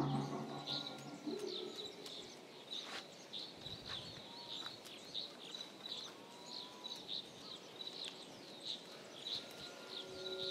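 Small birds chirping: short, high chirps repeated about twice a second, over a faint outdoor background.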